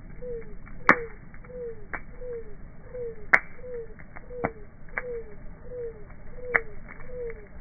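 Wood fire crackling in slowed-down playback: scattered pops, three of them sharp and loud, over a soft falling tone that repeats about three times a second.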